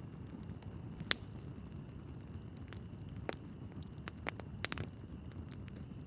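Wood logs burning in a fireplace: a steady low rumble of flames with a few sharp crackles and pops, the loudest about a second in.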